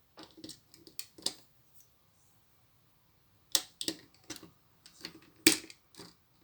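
Plastic Lego pieces clicking and tapping as they are handled and pressed together: a short run of clicks, a pause, then a busier run with one sharp louder snap near the end.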